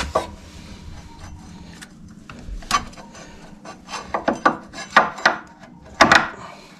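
Motorcycle front brake caliper, with fresh pads, being worked back over the brake disc: metal scraping and rubbing broken by several sharp clicks and knocks, the loudest about a second before the end.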